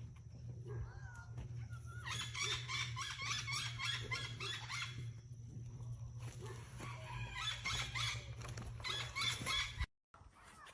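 Chickens calling and clucking in two busy stretches, over a low steady hum; the sound cuts off abruptly near the end.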